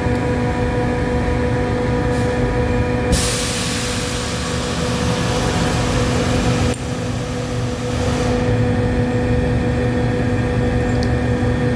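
Solenoid valve buzzing steadily, a noise that comes from the valve's plunger cylinder rather than its coil. About three seconds in, a loud hiss of flow through the valve starts; it cuts off sharply near seven seconds and a weaker hiss dies away a second later.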